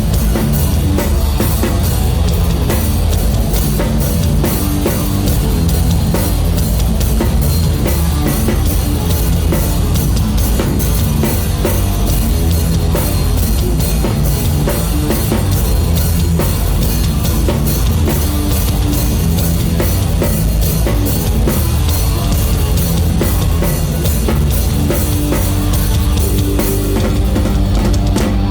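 Rock band playing live, led by a loud drum kit with a fast, steady beat of kick drum and cymbals over bass and electric guitars. Near the end the cymbals drop back and held guitar notes come forward.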